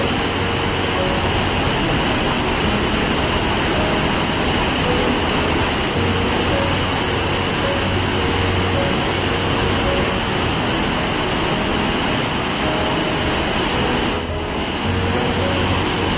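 Steady roar of a large waterfall, with soft background music underneath. The roar dips briefly about two seconds before the end.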